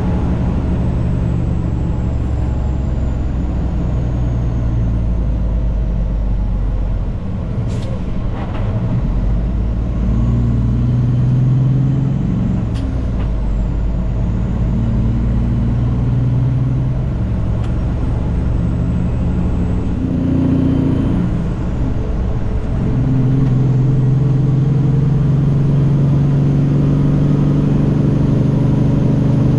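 Heavily loaded semi-truck's diesel engine, heard from inside the cab while driving. The engine note steps up and down several times and is louder and steadier near the end.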